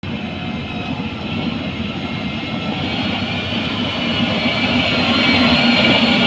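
Heavy machinery running steadily, with a high whine over the engine noise, growing gradually louder.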